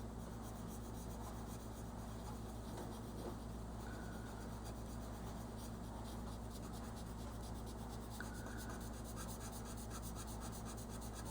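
Colouring strokes on paper: a crayon or pencil-type tip rubbing back and forth in quick, even strokes, over a steady low hum.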